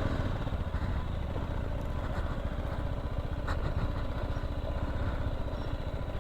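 Motorcycle engine running steadily at low revs, with a brief light knock about three and a half seconds in.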